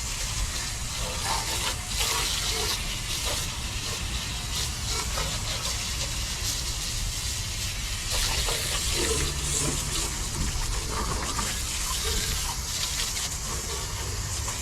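Steady water spray hissing and splashing against the metal of a car's engine bay as it is washed down after degreasing.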